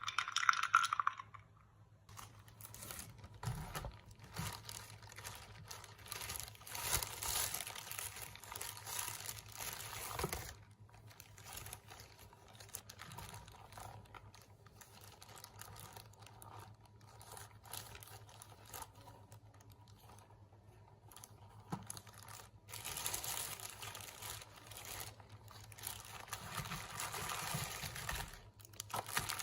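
Intermittent rustling and crinkling handling sounds, with a sharper, louder rustle at the very start, over a steady low hum.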